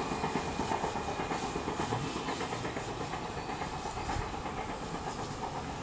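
Passenger train's coaches rattling and clattering over the rails as the train pulls away, fading slowly as it recedes.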